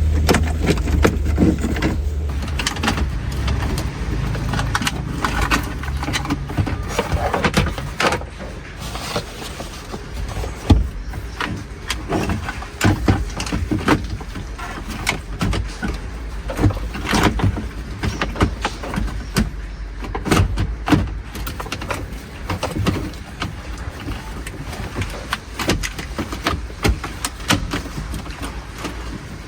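A car's low rumble, strongest in the first couple of seconds and then fading, under many irregular knocks and rattles.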